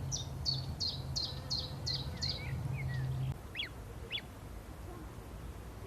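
A songbird calling a rapid series of short, high repeated notes, about three a second, then a few lower chirps and two sharp sweeping notes. A low steady hum underneath stops about three seconds in.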